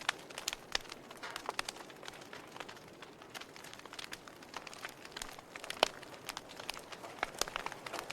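Campfire burning, wood crackling with irregular sharp pops over a soft hiss; one louder pop about six seconds in.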